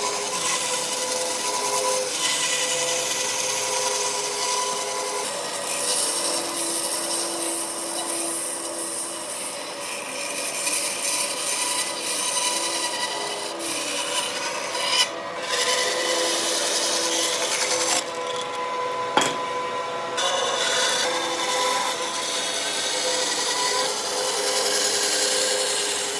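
Wood being worked by an abrasive tool: a steady rubbing, scraping noise with short breaks about halfway through and again a few seconds later.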